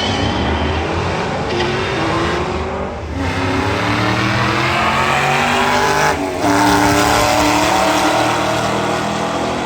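Car engine at full throttle, accelerating hard, its pitch climbing and then dropping at two gear changes about three and six seconds in.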